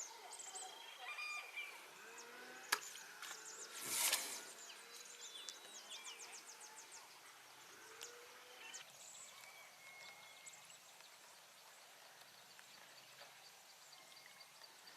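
Faint forest ambience of small bird chirps and calls, with a sharp click about three seconds in and a brief whoosh about a second later.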